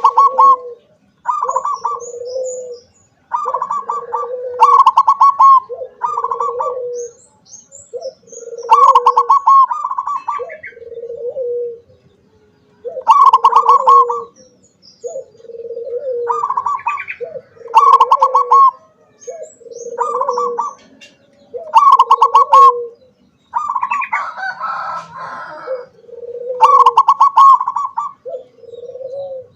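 Zebra dove (perkutut) cooing over and over: each phrase is a quick stuttering run of higher notes that drops into a lower drawn-out coo, coming about every two seconds. Faint high chirps from small birds sound in the gaps.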